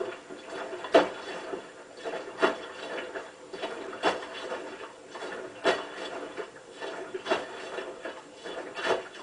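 Hotpoint WT960 washing machine drum starting to turn after a pause and tumbling a nearly empty load, with a sharp knock about every second and a half and lighter rattling between.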